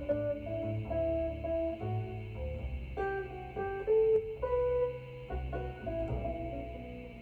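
Jazz recording played back over a home stereo system: a plucked guitar melody over a walking bass line.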